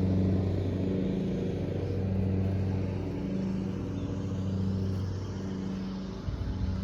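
A small engine running steadily at an even speed, its hum rising and dipping slightly in level.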